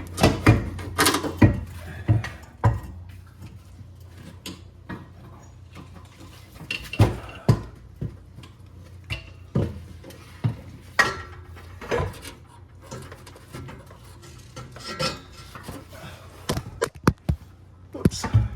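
Irregular metal clanks, clinks and knocks as a heavy steel exhaust section is manoeuvred and bumped into place under the car, over a steady low hum.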